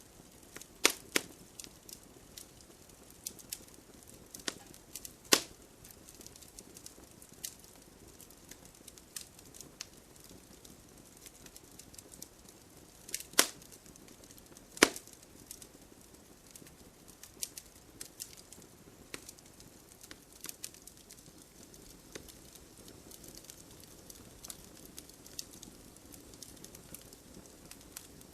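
Wood campfire crackling: irregular small snaps and ticks over a faint hiss, with a few loud sharp pops from the burning wood, the loudest about 13 and 15 seconds in.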